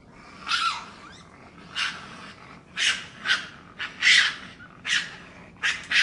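Coati giving a series of short, harsh, high calls, about eight of them at irregular intervals, the loudest about four seconds in.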